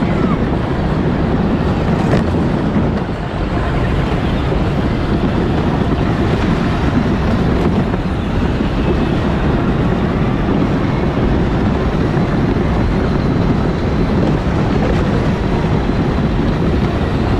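Power Wheels ride-on car driving, heard from on board: a loud, steady noise of its drive motors and wheels that does not let up.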